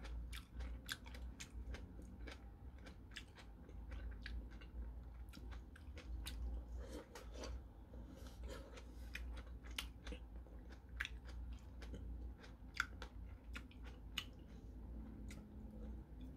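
A person biting into and chewing wedges of raw tomato close to the microphone, a steady run of small mouth clicks.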